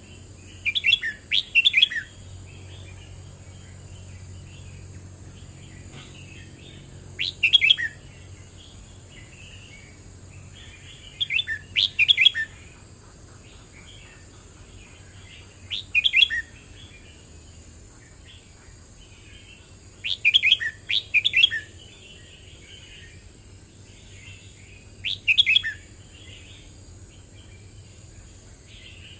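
Red-whiskered bulbul singing: six short, loud whistled song phrases of about a second each, one every four to five seconds, with softer chattering notes in between.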